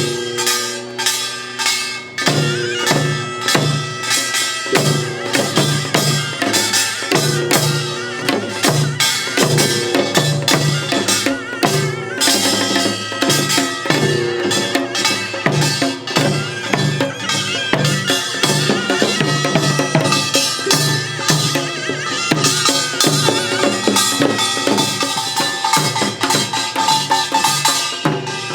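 Korean pungmul band playing: rapid, driving drum and gong strokes in a steady rhythm, with a held melodic line sounding over them.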